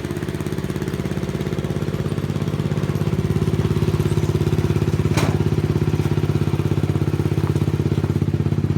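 Gravely tractor engine running steadily with an even beat, growing slightly louder about three seconds in. A single sharp click sounds about halfway through.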